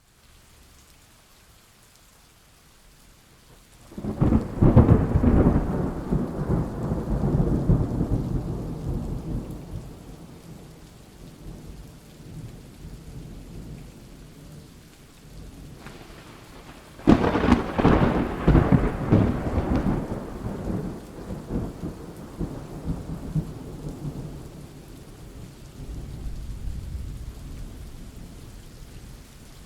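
Thunder: two sharp claps, about four seconds in and again about seventeen seconds in, each rolling off into a long rumble that fades over several seconds, with a softer rumble near the end.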